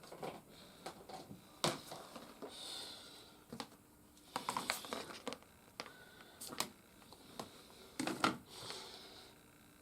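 Hard plastic toy playset parts being handled and pressed together: irregular clicks and knocks of plastic on plastic, some in quick clusters, with brief scraping rustles between them.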